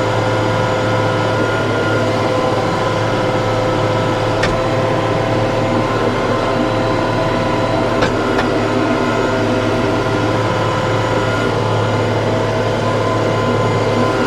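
TYM T654 tractor running steadily at a constant speed, with a steady hum and whine. There are two short sharp clicks, about four and a half and eight seconds in.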